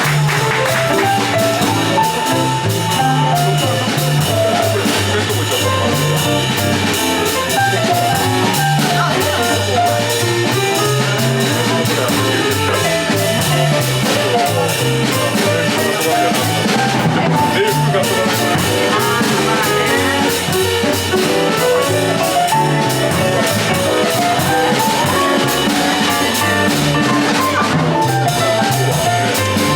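A small jazz band playing live: a drum kit keeping time under a stepping bass line, with a melodic lead line above.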